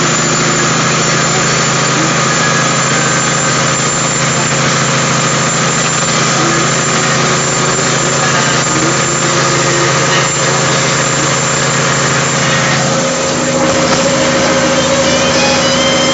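Caterpillar 3406E straight-six diesel of a Kenworth W900A log truck running steadily. Its low note changes about thirteen seconds in.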